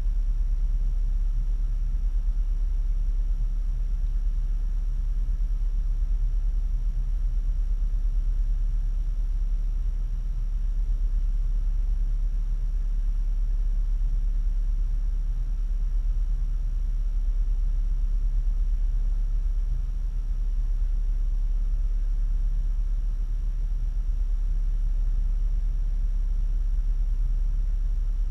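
Vehicle engine idling: a steady, unbroken low rumble, with a faint constant high whine above it.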